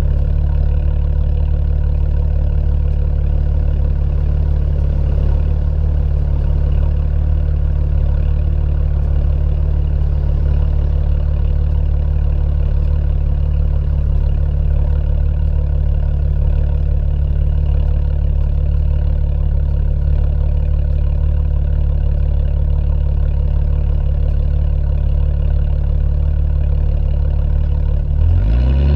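BMW E90 328i inline-six running steadily through aftermarket headers and a performance exhaust, a deep, even drone. The revs climb sharply right at the end.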